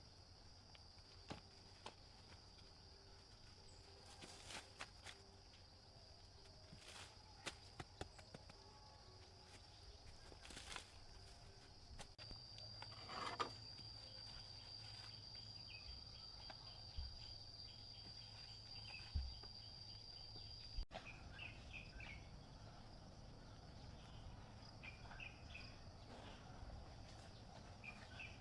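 Faint, steady, high-pitched insect trill from crickets or cicadas, strongest through the middle stretch, with scattered soft clicks and knocks.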